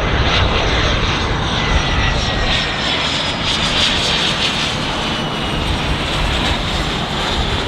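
Fixed-wing aircraft engine running loud and steady, with a thin high whine that slowly falls in pitch.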